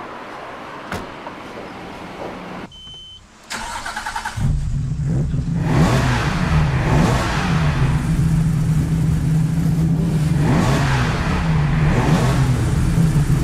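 Custom-built 3-litre Nissan RB30 straight-six with an RB26 twin-cam head and individual throttle bodies, started for the first time. The starter cranks briefly and the engine catches about four seconds in, then runs loud and even, with two rises in revs. It is running smoothly, as the builder judges it just afterwards.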